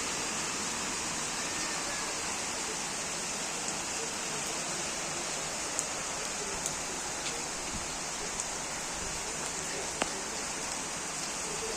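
Steady rain falling, with a few sharper drip ticks scattered through it.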